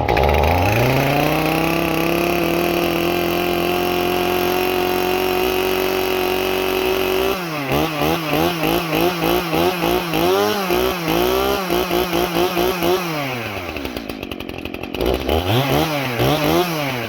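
Two-stroke Stihl chainsaw revving up to full throttle and running at a steady high pitch. After about seven seconds the pitch rises and falls again and again for several seconds, then drops to idle. Near the end it revs twice quickly.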